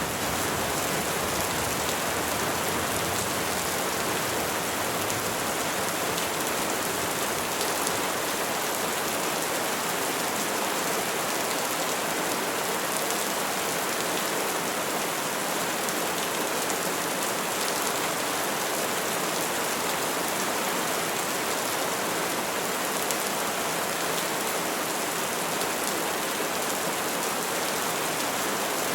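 Steady rain falling on trees and foliage, an even dense hiss of drops with no thunder.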